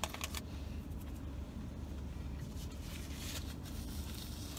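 Chewing a mouthful of sandwich, with a few sharp clicks at the start and paper napkin and wrapper rustling about three seconds in, over a steady low hum.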